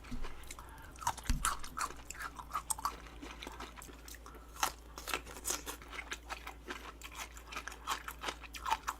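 A person chewing a mouthful of boiled pork wrapped in kimchi cabbage, with many short, irregular crunches.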